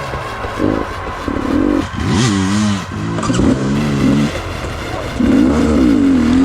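Dirt bike engine revving in about five short throttle bursts, its pitch rising and falling with each one; the longest burst comes near the end.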